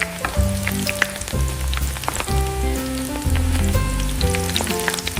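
Heavy rain sound effect, a steady hiss dotted with many small drop ticks, over background music with a moving bass line.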